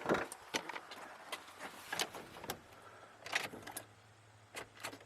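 Keys jangling and a few light clicks as the ignition key of a Ford F-150 is turned. The engine does not crank: a no-start, with the truck still dead after its starter was refitted.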